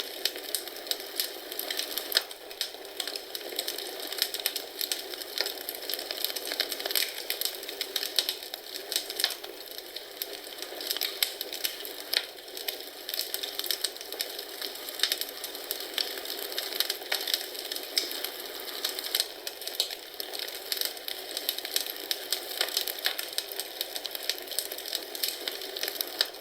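Wood fire in a fireplace crackling steadily, with many small pops and snaps over a soft hiss.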